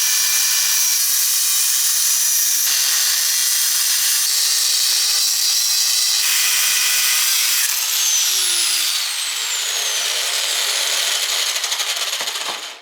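Angle grinder running and cutting metal, a loud steady high-pitched whine whose pitch dips about eight seconds in, then cuts off suddenly at the end. It is cutting through the old Nissan Skyline stabilizer links, whose nuts had rounded off and would not unscrew.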